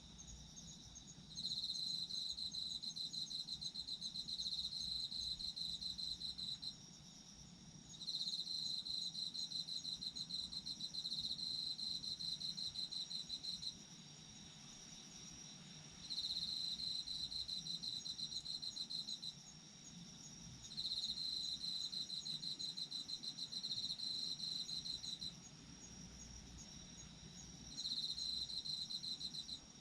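Autumn crickets calling: one loud, fast-pulsing trill comes in repeated phrases of about four to six seconds with short pauses between, five phrases in all, over a steady chorus of higher-pitched insects.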